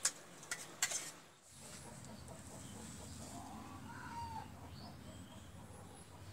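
A few sharp knocks in the first second, then a quiet background with a few faint bird calls near the middle.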